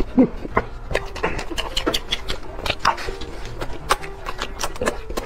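Close-miked wet chewing and lip smacking while eating a glazed rice-stuffed chicken leg: a quick, irregular run of sticky mouth and teeth clicks.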